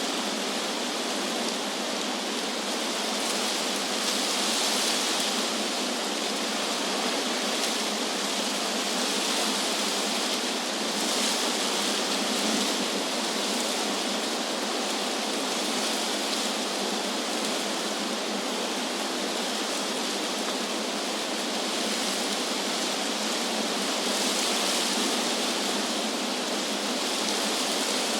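Wind rustling through tree leaves: a steady, even hiss that swells gently a few times.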